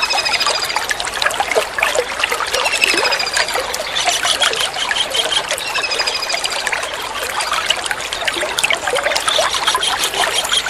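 Water trickling and splashing steadily, with a kingfisher's short high trills of rapid, evenly spaced notes repeating about every three seconds.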